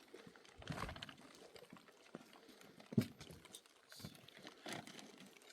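Scattered light clicks and knocks, with a brief scraping clatter just before one second in and a single sharp knock about three seconds in.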